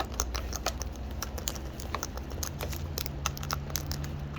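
Parrots' beaks cracking seed and tapping at the feed containers: a rapid, irregular run of crisp clicks and crunches, over a low steady hum.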